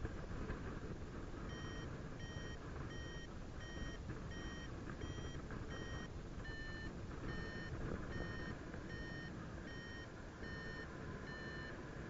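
Paragliding variometer beeping, short tones at about two a second, with the pitch dipping slightly partway through. This is the vario signalling that the glider is climbing in lift. Steady wind noise sits underneath.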